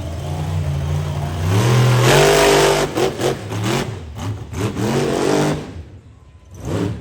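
Monster truck engine revving hard, its pitch rising to the loudest point about two seconds in, then a string of quick throttle blips before it falls away near the end.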